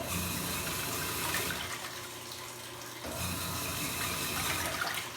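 Washing machine agitating a load: water sloshing and swishing, with the motor humming in strokes of about a second and a half separated by short, quieter pauses.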